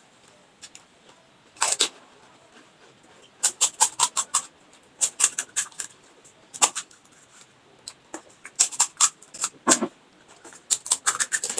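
Crisp fried pani puri shells crunching as they are bitten and chewed close to the microphone, in several short bursts of crackly crunches with pauses between.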